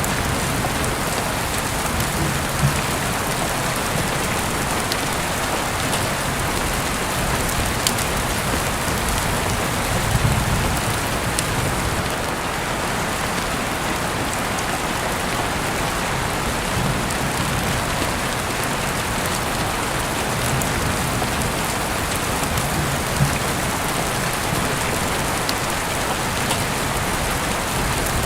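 Steady rain falling, an even hiss with occasional sharp ticks throughout.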